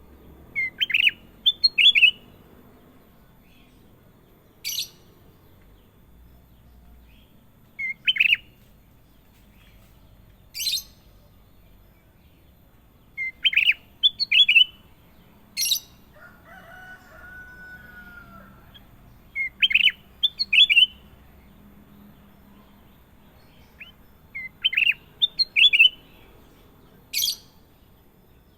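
Kutilang emas, a bulbul, singing: short phrases of three or four quick whistled notes, repeated every five or six seconds, with single sharp high chirps in between.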